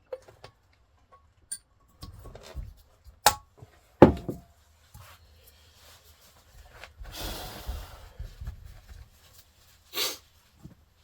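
Engine parts being handled on a workbench during valve work on a cylinder head: a series of sharp clicks and knocks, the loudest about 3 and 4 seconds in and another near the end, with about a second of rubbing or wiping between them.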